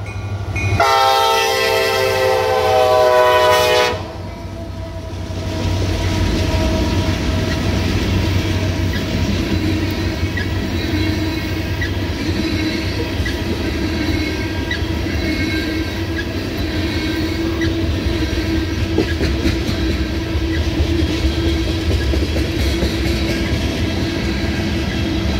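Diesel freight locomotive horn sounding one loud multi-note blast of about three seconds, starting about a second in. Then two EMD SD70MAC diesel locomotives pass, followed by a loaded string of ethanol tank cars rolling by with a steady rumble and the clickety-clack of wheels over the rail joints.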